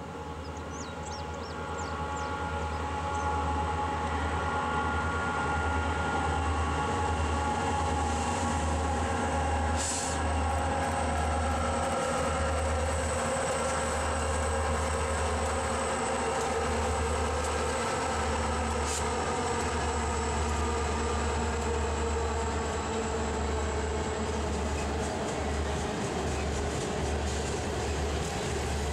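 Diesel-hauled freight train rolling past: a steady rumble of locomotive engines and wheels on rail that builds over the first few seconds and then holds, with a couple of sharp clanks along the way.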